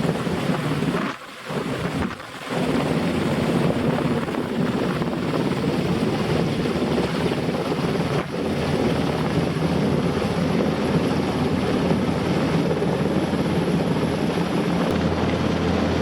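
NH90 twin-turbine helicopter running steadily close by, a dense rotor and turbine noise that dips briefly twice in the first few seconds.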